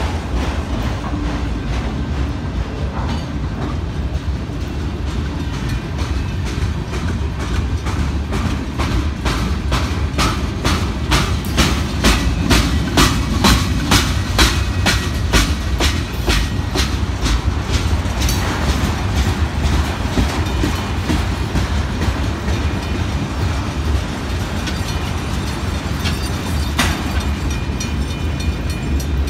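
Freight cars of a slow-moving train rolling past with a steady low rumble. In the middle stretch there is a run of rapid, evenly spaced clicks as the wheels cross the rail joints.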